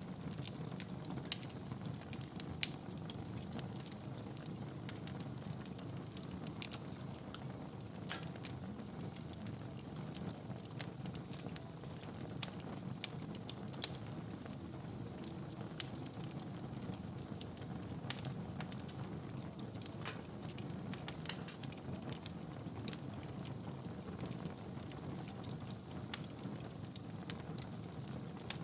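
Wood fire burning in a fireplace: a steady low rumble of flames with scattered crackles and sharp pops.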